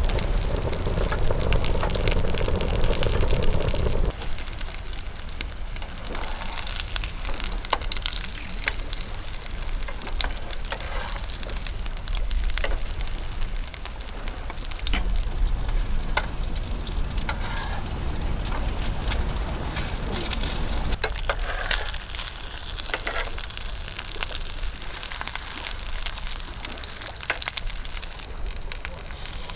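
Strong wind rumbling on the microphone, with a dense crackle of small ticks over it. A steady hum under the wind stops about four seconds in.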